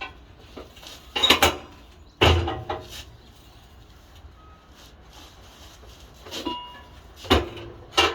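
Pieces of steel clanking and knocking together in a handful of irregular hits, several with a short metallic ring.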